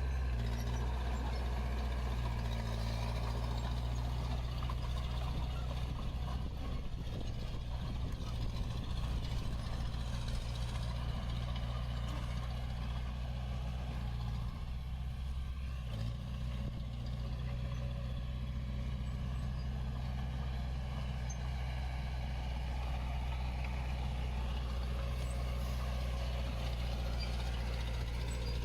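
Diesel engine of heavy earthmoving equipment running steadily at a constant speed, its low hum unbroken throughout.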